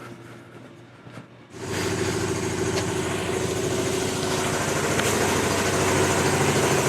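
Shop air compressor kicking on about one and a half seconds in, then running steadily with a fast, even pulsing.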